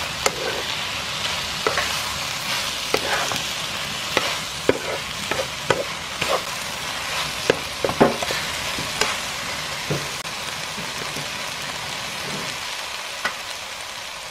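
Fish cakes and vegetables sizzling in a hot pan as they are stir-fried with a spatula, with scattered scrapes and taps of the spatula against the pan; the taps thin out near the end while the sizzle goes on.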